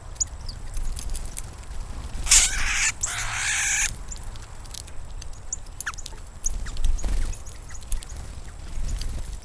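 Birds at a feeder: scattered short chirps and small clicks, with two loud, harsh bursts back to back about two seconds in, lasting about a second and a half together.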